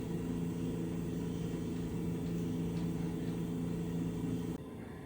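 A steady low machine hum with several pitched tones, cutting off abruptly near the end.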